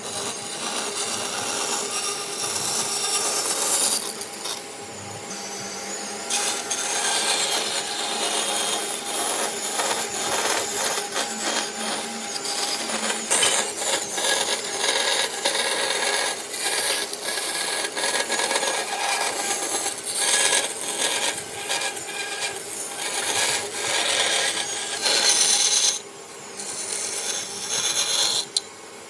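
A hand tool scraping and rasping across wood in quick repeated strokes, dipping briefly a few times near the end.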